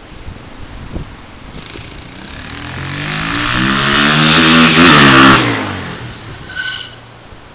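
A motor vehicle passing close by: its engine and road noise build to a peak about five seconds in and then fall away, the engine's pitch bending as it goes past. A short high-pitched tone sounds near the end.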